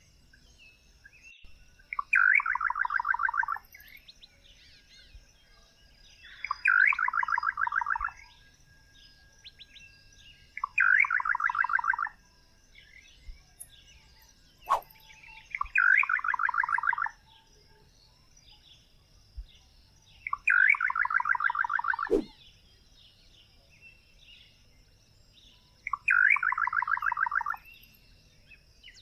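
A songbird repeating the same song six times, each phrase a rapid run of notes falling in pitch and lasting about a second and a half, with four to five seconds between phrases. A faint, steady high-pitched chorus of other birds or insects runs underneath.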